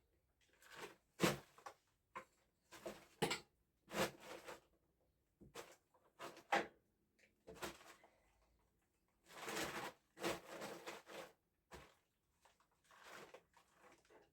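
Hand digging out collapsed clay: irregular scraping strokes, each a short burst of under a second, with a few sharper knocks among them.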